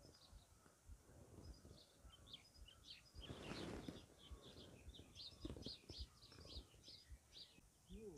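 Faint chirping of small birds, many short calls, busiest in the second half. A brief rush of noise about three seconds in, and low bumps underneath.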